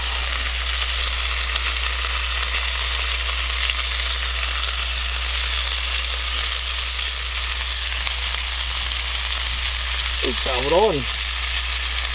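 Beef burger patties frying in a cast-iron skillet, a steady sizzle.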